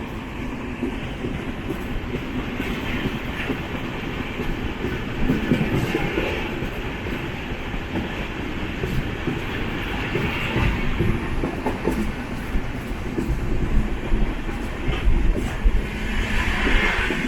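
Express passenger train running at speed on the line, a steady rumble with the clickety-clack of coach wheels over the track, surging now and then.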